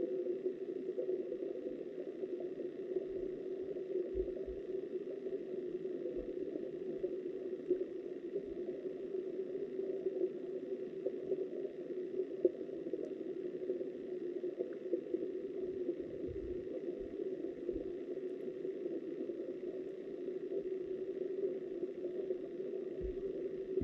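Flowing river water heard from underwater through a camera housing: a steady, muffled rushing, with a few faint low thumps.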